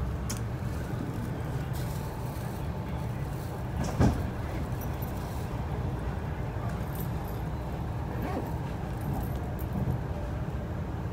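Steady low rumble of an MTR R-train electric multiple unit running along the line, heard from inside the carriage, with one sharp knock about four seconds in.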